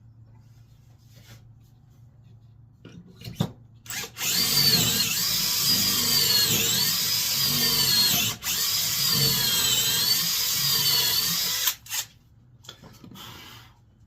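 Power drill boring a dowel hole in red oak, its motor whine dipping in pitch as the bit loads and recovering. It runs in two stretches of about four seconds each with a short break between, and a couple of knocks come just before it starts.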